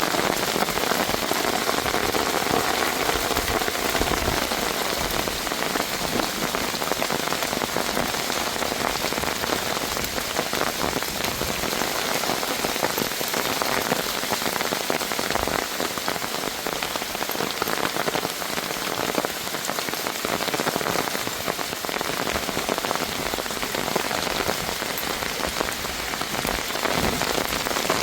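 Heavy rain falling steadily: a dense, even hiss made of countless small drop impacts on a hard surface.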